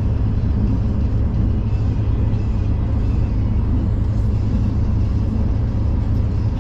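V/Line passenger train running along the line, heard from on board: a steady low rumble of wheels and carriage.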